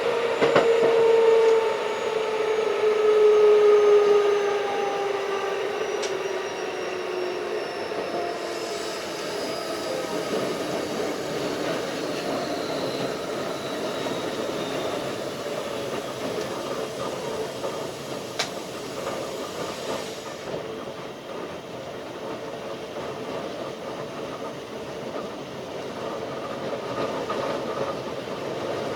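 Keikyu 1500 series field-chopper electric train running, its traction motor and gear whine gliding down in pitch over the first ten seconds as it slows, then settling into a steady rumble of wheels on rail with a few sharp clicks from the track.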